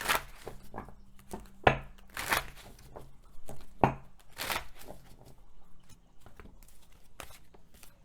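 Tarot cards being shuffled and handled: an irregular run of papery riffles, slaps and rustles.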